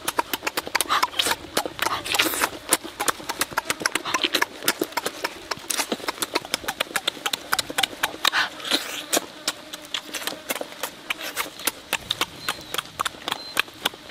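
Close-miked wet chewing and lip-smacking of someone eating cooked fish with their fingers: a rapid, irregular run of smacks, several a second, that never stops.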